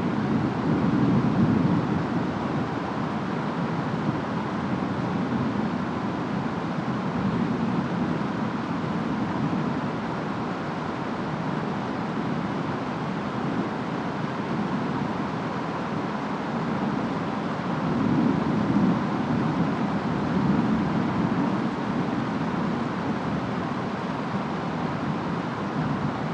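Steady rain and wind of a distant rainstorm, an even hiss with a deep undertone that swells louder about a second in and again around eighteen seconds in.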